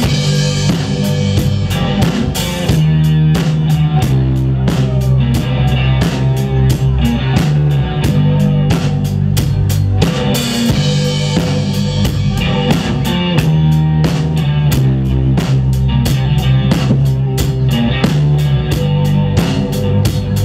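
Live rock band playing an instrumental passage: a drum kit keeps a steady beat over bass and electric guitar, with no singing.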